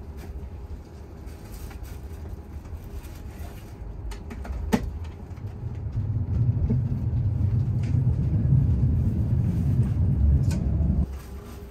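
Low rumble of a passenger train running, heard from inside the coach, growing louder about halfway through and cutting off suddenly near the end. A single sharp click comes about five seconds in.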